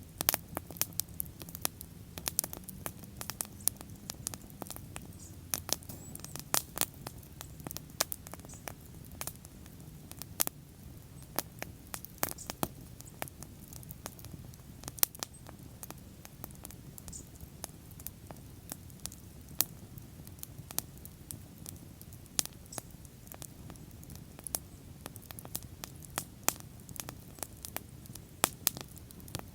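Wood bonfire burning, with many sharp, irregular crackles and pops over a steady low rumble of the flames.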